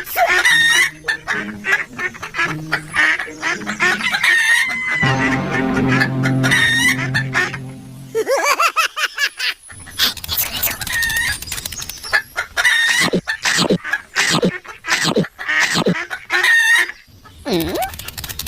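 Chickens clucking in short repeated calls, with a low steady hum for about three seconds midway.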